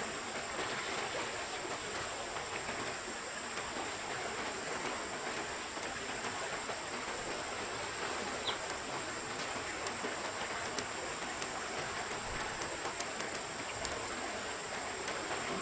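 Steady, even wash of water noise, with a thin high-pitched steady tone above it and scattered faint ticks.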